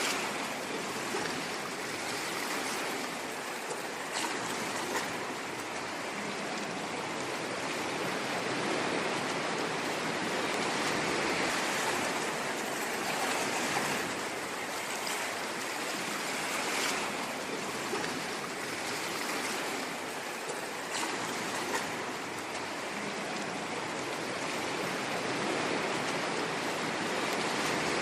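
Ocean waves washing ashore in a continuous rush that swells gently and eases off every several seconds, with small splashes now and then.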